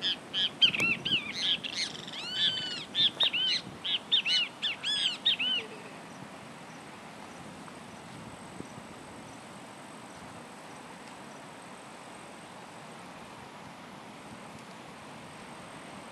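A bird calling over and over, a quick run of short notes that each rise and fall, for the first five or six seconds. After that there is only a steady faint outdoor background.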